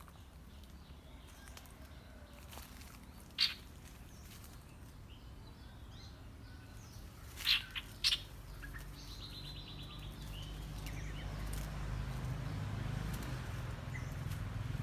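Bird calling: a few sharp single chirps, then a short rattling trill about nine seconds in, over a low rumble that grows louder in the second half.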